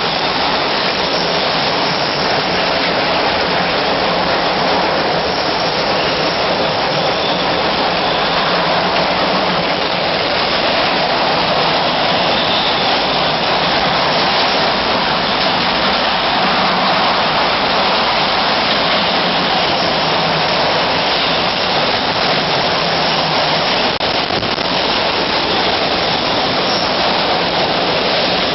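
Tropical cyclone wind of about 80 knots with driven rain: a loud, steady rushing noise with no letup.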